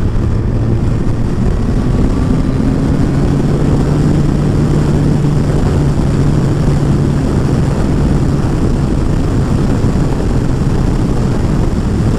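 Kawasaki ZZR1400's inline-four engine running at a steady cruise while riding, its pitch rising a little about three seconds in and then holding, under a constant rush of wind and road noise.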